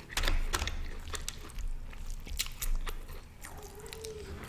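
Close-miked eating: biting and chewing with many short wet mouth clicks, and a brief hum near the end.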